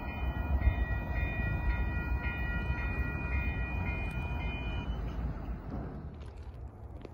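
Passenger train running away into the distance, its low rumble fading near the end, with a high repeating tone pulsing about twice a second that stops about five seconds in.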